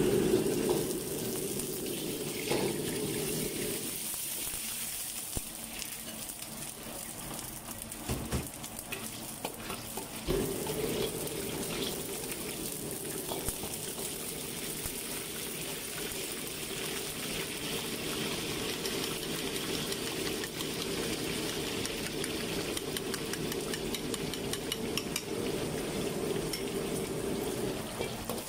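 Oil and chopped garlic sizzling in a wok, with the odd clink of the metal ladle. Under the sizzle is a low steady rumble that stops about four seconds in and comes back about ten seconds in.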